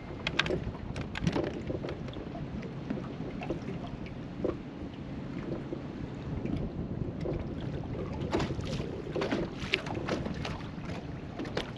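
Strong wind rumbling on the microphone aboard a small fishing boat, with scattered light clicks and knocks.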